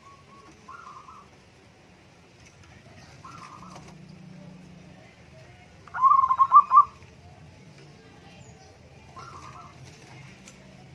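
Zebra dove (perkutut) cooing: a few soft short calls, and one louder run of about five quick cooing notes in the middle.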